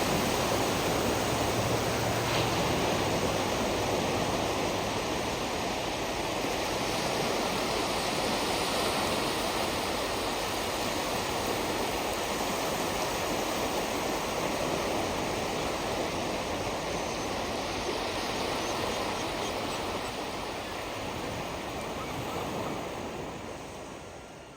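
Steady wash of surf along a saltwater shoreline, an even rushing noise that fades out near the end.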